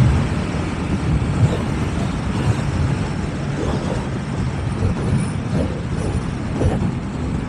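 Yamaha MT-09 motorcycle's three-cylinder engine running steadily while riding through traffic, with a low rumble and road noise.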